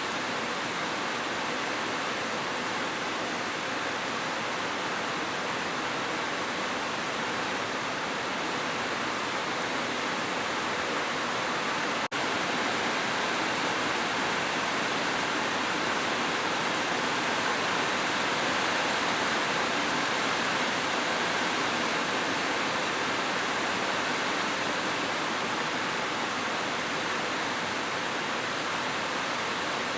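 Heavy rain falling as a steady, even hiss, with a split-second break about twelve seconds in.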